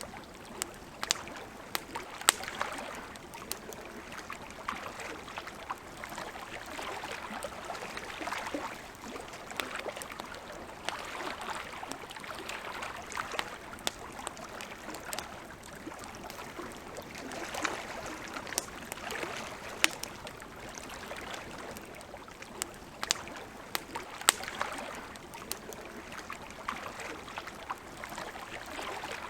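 Wood campfire crackling, with sharp irregular pops and snaps, over a soft wash of lake water lapping that swells and fades every few seconds.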